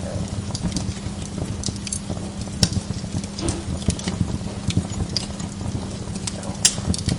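Wood log fire in a fireplace crackling: many irregular small crackles over a low steady rumble, with two sharper pops, one a little before three seconds in and one near the end.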